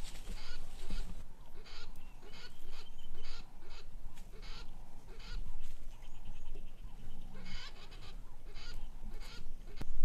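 Birds calling with short, harsh, honking squawks, two to three a second in runs, with a lull in the middle that holds a faint buzzy trill.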